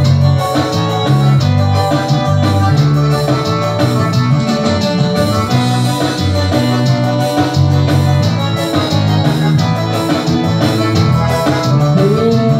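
Instrumental break in a Brazilian dance song: a keyboard melody and guitar play over a steady bass line, with no singing.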